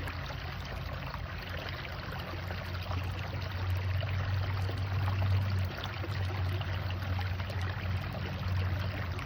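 Waterfall: steady rushing, splashing water with a constant low rumble underneath.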